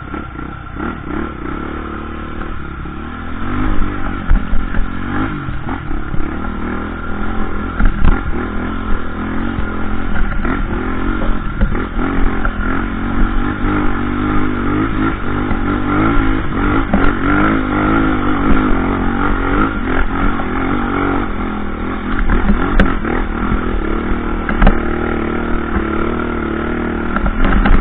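Off-road trail motorcycle engine running continuously under changing throttle, its pitch rising and falling, with occasional short knocks and rattles.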